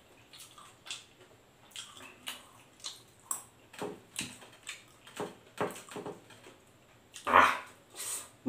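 Close-up eating sounds of fried chicken and rice eaten by hand: a run of short wet chewing and lip-smacking clicks, with one louder, fuller mouth sound near the end.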